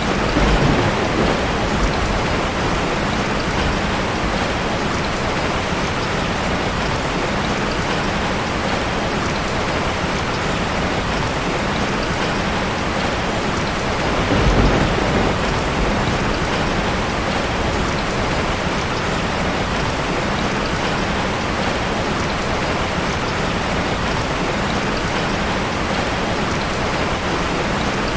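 Steady rain falling hard, an even hiss, with two low rumbles, one about a second in and one near the middle.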